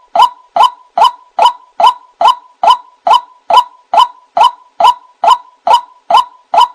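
White-breasted waterhen (ruak-ruak) calling: a short, harsh note repeated at an even pace, about two and a half calls a second.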